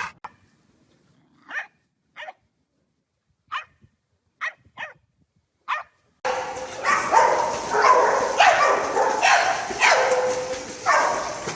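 A dog barking in a loud run of barks that starts about halfway through, after a few short, faint sounds.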